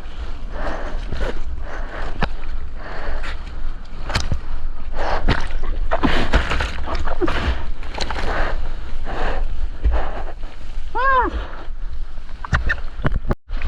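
Sea water sloshing and splashing around a GoPro out in the surf, with wind rumbling on the microphone. About eleven seconds in there is a short pitched call that rises and falls, and the sound cuts out for a moment near the end.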